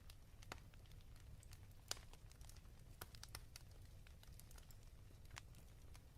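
Fireplace fire crackling faintly: scattered sharp pops and snaps over a low steady rumble, with one louder pop about two seconds in.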